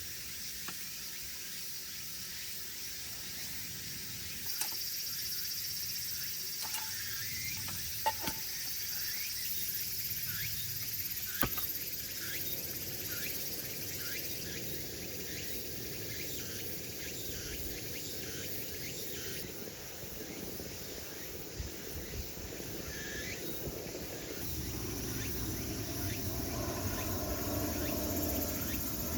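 Forest ambience: insects chirring steadily, with a few faint bird chirps and light clicks. In the last few seconds a low rushing noise grows louder.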